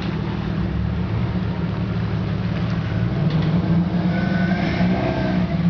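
Jeep engine running steadily.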